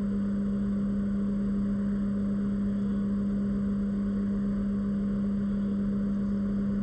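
Steady machine hum: one strong low tone over an even hiss, unchanging throughout.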